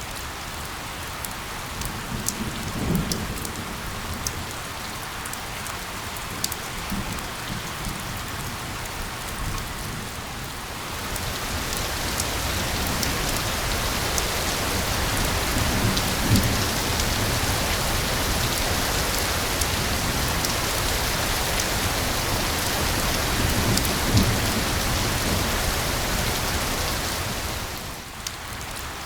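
Steady rain falling on a surface as an even hiss. It grows heavier about a third of the way in and eases again just before the end, with a few brief low rumbles under it.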